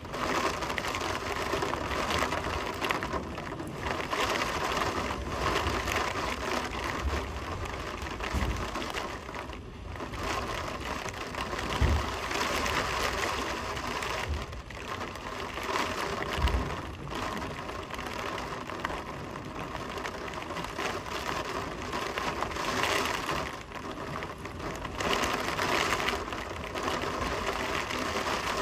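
Heavy rain driven by strong wind, a dense rushing hiss that swells and eases with the gusts. Now and then there is a brief low rumble of wind buffeting the microphone.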